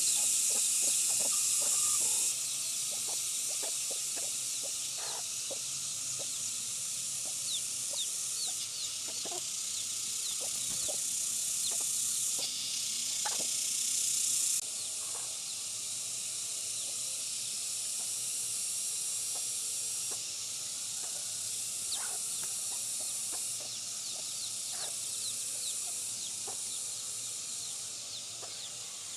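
Chicks peeping in short falling chirps over a steady high hiss, with scattered light knocks and taps.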